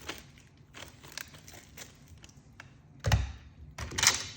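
Packaging and small accessories handled and set down on a table: light clicks and taps, a dull thunk about three seconds in, then a sharper knock with a rustle about a second later.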